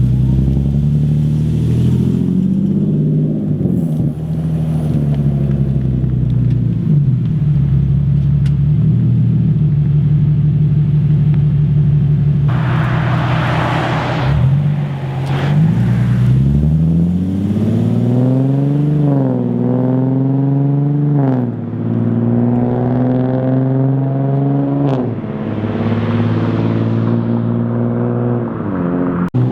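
Nissan 370Z's 3.7-litre V6 running through a catless test-pipe setup and Z1 Motorsports single exit race exhaust. It holds a steady drone for about half the time, then its pitch climbs and drops sharply several times in the second half, as under acceleration with the revs rising and falling, with a brief hiss about 13 seconds in.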